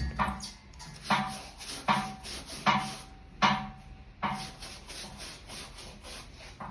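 Brush spreading rubber solution over a truck tyre casing in rhythmic scraping strokes, about one every 0.8 s, six strokes that stop about two thirds of the way through.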